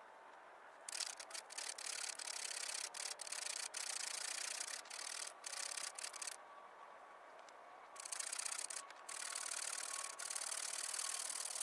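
Chain-type survival saw pulled back and forth through a branch of seasoned oak, a rasping scrape in runs of strokes. It starts about a second in and pauses for a second or two in the middle.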